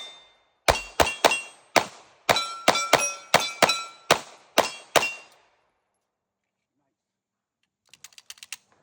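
Rapid pistol fire, about a dozen shots in four seconds, each shot followed by a brief ringing clang of steel targets being hit. The firing stops, and a few light clicks follow near the end.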